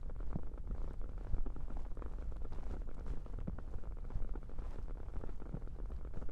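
Ear cupping on a 3Dio binaural microphone: hands or soft objects pressing and rubbing over its ears, giving a muffled, dull low rumble with soft irregular thumps.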